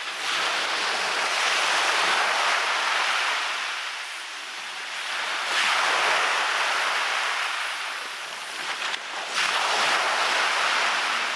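Waves breaking and washing up on a beach, swelling and falling away three times, about four seconds apart.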